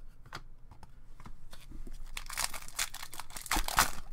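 Foil wrapper of a hockey card pack crinkling and tearing as it is handled, after a few light taps and clicks of cards. The crinkling starts about halfway through and is loudest near the end.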